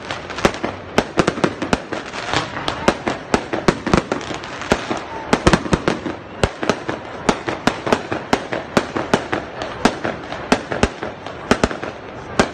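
Aerial fireworks going off in quick, uneven succession: about three sharp bangs a second over a constant noisy background of bursting shells.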